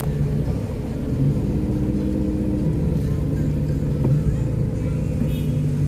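Car engine running at low, steady revs, heard from inside the cabin, its pitch shifting a few times as the car creeps along.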